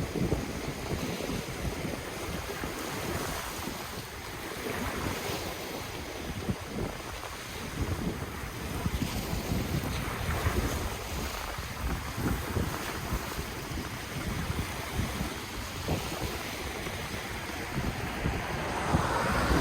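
Ocean waves washing on the shore in steady surges, with wind buffeting the microphone in low rumbles.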